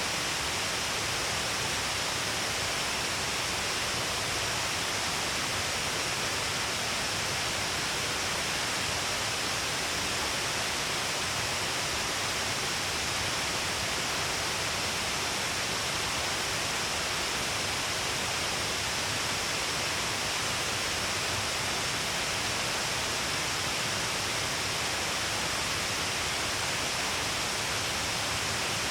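Waterfall: the steady, even rush of Shiraito Falls, many streams of water falling along a wide cliff face.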